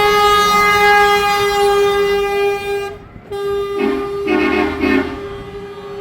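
Vehicle horns sounding in a tractor convoy: one long held horn note that breaks off briefly about three seconds in and resumes, with a second, deeper horn honking three times near the end.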